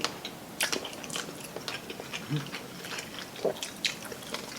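Close-miked biting and chewing of crispy fried chicken: irregular crisp crackles and mouth clicks.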